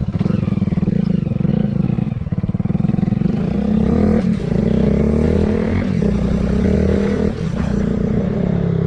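Motorcycle engine running at fairly steady revs, with small dips in level about four and seven seconds in.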